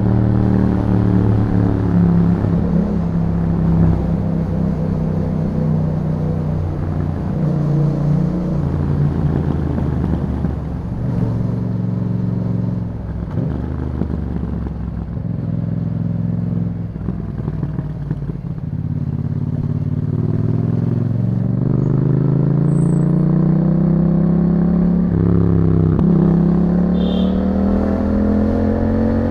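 2021 Yamaha MT-07's parallel-twin engine running through an Akrapovic exhaust while riding. It holds steady at first, drops back off the throttle around the middle, then climbs in a long rising rev with a brief dip about three-quarters of the way through.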